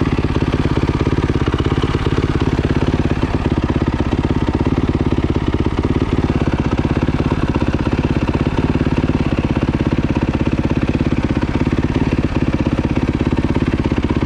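Dirt bike engine running steadily while ridden, with a rattle that sounds like the chain jumping a sprocket tooth, though no teeth appear to be missing.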